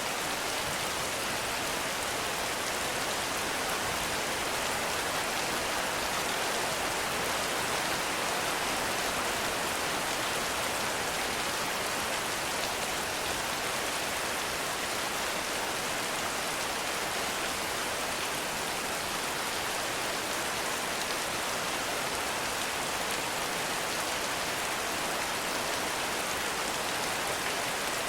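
Heavy rain falling steadily in a forest, a dense, even hiss of rain on leaves and ground.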